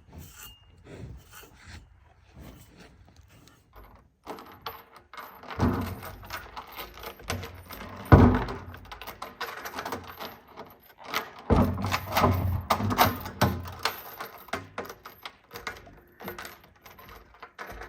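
A bison rubbing and licking against a tractor: irregular rasping and scraping with scattered clinks, and a few heavier knocks about five, eight and eleven seconds in.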